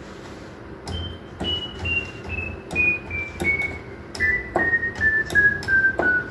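Roland D-70 synthesizer sounding single notes one key at a time, stepping steadily down the keyboard about three notes a second, each with a click as the key is pressed: a key-by-key test of the keyboard after repair.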